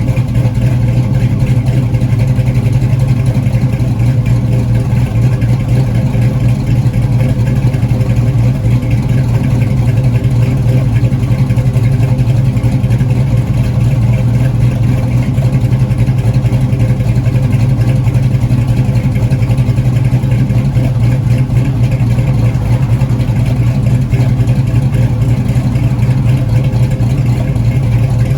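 1969 Pontiac Trans Am V8 with a BTR Stage 2 camshaft, idling steadily after a cold start, with no revs.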